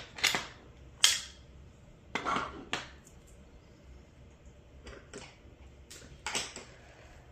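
Small magnets and metal washers clicking and clinking as they are handled in a small 3D-printed accessory box: a handful of short, separate clicks spread through.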